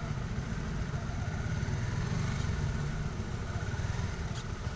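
Honda CB150R's 150cc single-cylinder engine running at low revs through a slow-speed turn, a steady low pulsing rumble. A single light click near the end.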